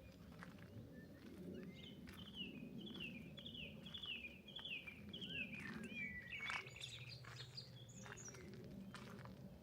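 A songbird singing: a run of about six repeated falling notes, roughly two a second, ending in a short flourish, over a faint low background rumble.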